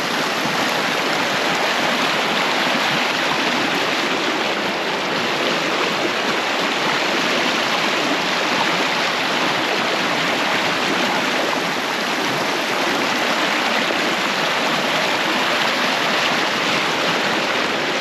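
Macquarie River water running fast, a steady rush of flowing water.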